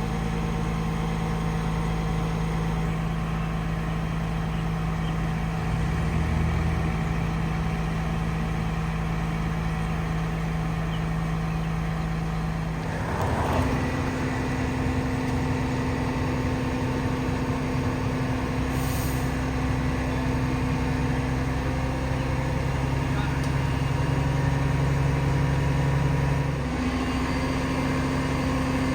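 Heavy diesel engine running steadily, its engine note shifting about halfway through and again shortly before the end.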